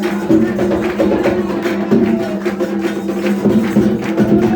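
Drumming and struck percussion playing a continuous rhythm with many sharp strikes, over steady sustained low tones.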